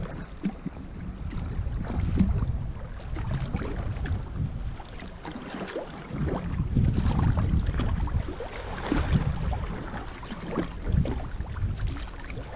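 Water splashing and sloshing around a sea kayak under way, irregular splashes over a low wind rumble on the microphone.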